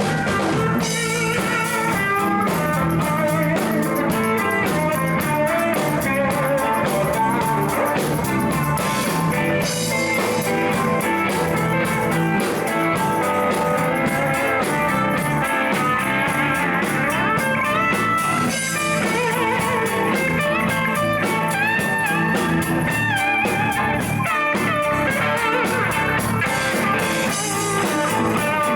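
Live band jamming a blues: electric guitar playing lead lines with bent, wavering notes over a steady bass and drum beat.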